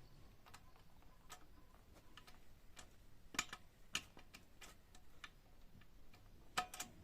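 A few faint, scattered clicks and light taps, with sharper clicks about three and a half and four seconds in and a quick pair near the end.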